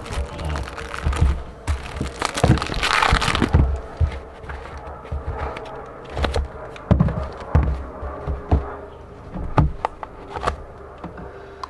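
Handling noises: irregular clicks, knocks and rustling, with a longer burst of crinkling about two to three and a half seconds in.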